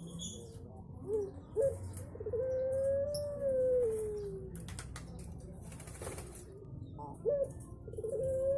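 Puter pelung, a ringneck dove kept for its long call, cooing. Two short sharp notes lead into one long drawn-out coo, about two seconds long, that rises a little and then falls. A second pair of short notes comes near the end as the next coo begins.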